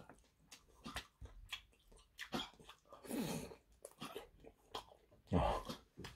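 Close-up biting and chewing on a chili-sauce-coated chicken drumstick: soft wet mouth smacks and small clicks, with a louder bite about three seconds in and a short hum near the end.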